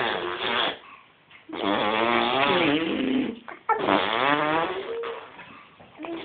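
Drawn-out, wavering vocal noises from a young creature: one ending early, then two longer ones of about two seconds each with short pauses between, rising and falling in pitch and rough-edged.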